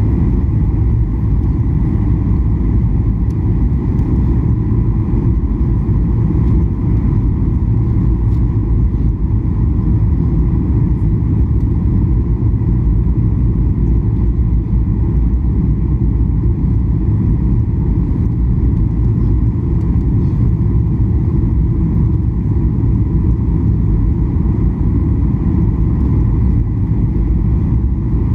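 Steady cabin noise inside a Boeing 737-800 on final approach: an even, loud low rumble of the CFM56 engines and rushing airflow, with faint steady tones riding above it.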